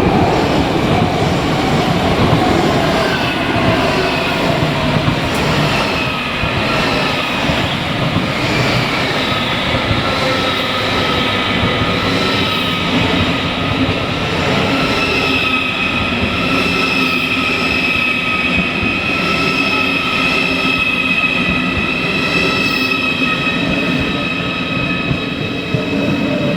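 A train moving through a station, with a whine that falls slowly in pitch over the first half as it slows. Through the second half come steady high-pitched squeals from the wheels or brakes, over a continuous rumble.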